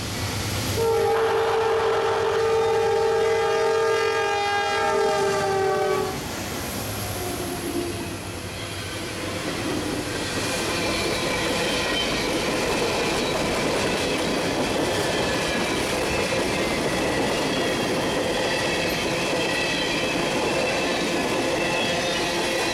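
Horn of a GE AC44C6M freight locomotive sounding one long chord blast of about five seconds, its pitch dropping as the locomotive passes. Then a string of steel open-top hopper cars rolls by with a steady rumble and clatter of wheels on rail and a faint high wheel squeal.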